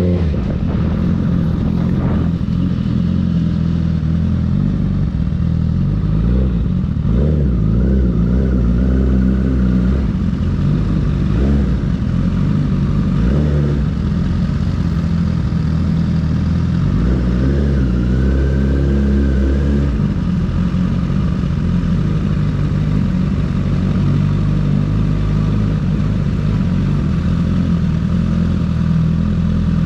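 Honda CBR1000RR SP1's inline-four engine running as the motorcycle is ridden, its note rising and falling with the throttle, with a dense low rumble throughout.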